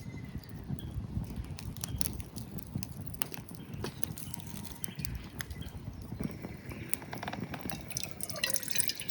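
Wood fire crackling in a small steel brazier: irregular sharp pops and snaps over a low steady rumble.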